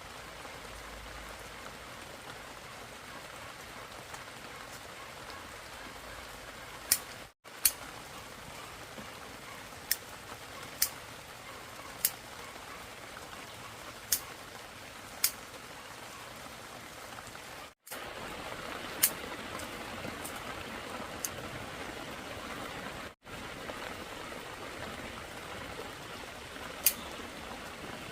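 Steady rain falling, an even hiss, with a scattering of sharp single ticks a second or more apart. The sound breaks off completely for a moment three times.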